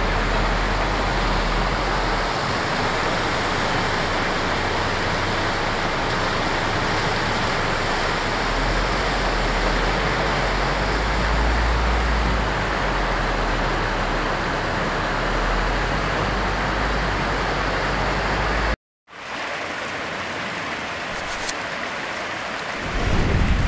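Heavy rain and floodwater rushing in a steady hiss. It breaks off abruptly about 19 seconds in and returns quieter, with a low rumble swelling near the end.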